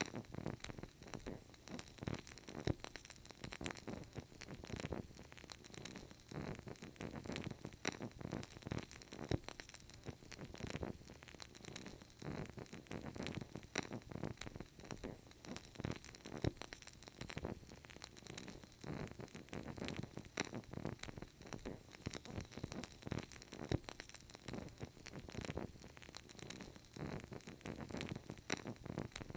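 Burning candle crackling: a dense, irregular run of small clicks and pops over a soft steady hiss.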